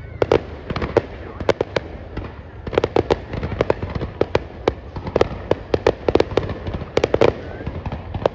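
Fireworks going off: clusters of rapid sharp cracks, one burst of pops after another about every second, over steady low background noise.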